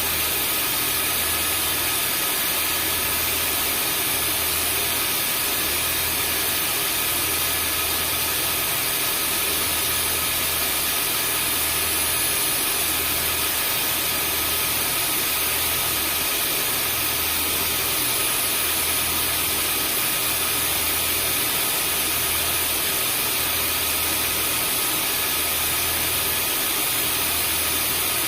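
Vacuum cleaner running steadily: a rushing-air hiss with a constant motor whine on top, and a low hum that swells and fades about once a second.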